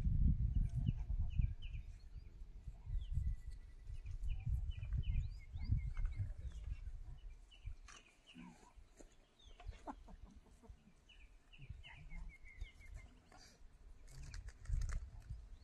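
Birds chirping in short, repeated high calls over an uneven low rumble.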